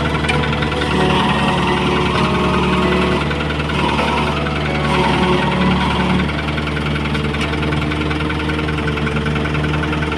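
Mini excavator's diesel engine running steadily, with its note filling out and easing back in the first half as the machine works.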